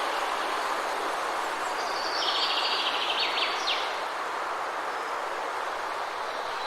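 A songbird sings one short, rapid trill of high chirps about two seconds in, over a steady rushing background noise.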